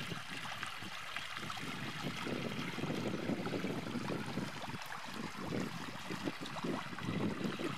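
Rainwater runoff running through a channel that it has cut across a dirt road: a steady rushing, trickling noise.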